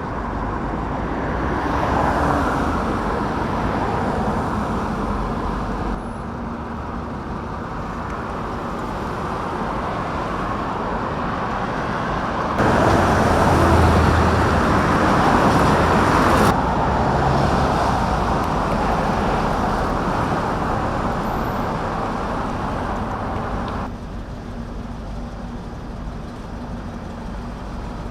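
Steady vehicle and traffic noise, with no clear single engine. It changes level abruptly several times, loudest for a few seconds just before the middle.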